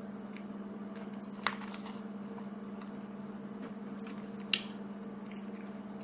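Steady low hum, with two short sharp clicks, the first about a second and a half in and the second about three seconds later.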